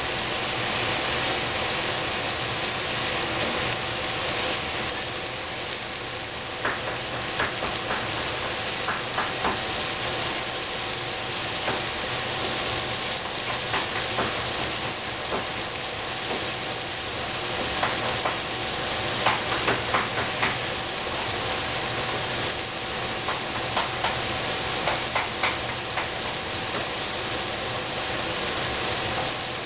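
Sliced onion and capsicum frying in a stainless steel pot: a steady sizzling hiss with scattered small crackles and pops, with a faint steady hum underneath.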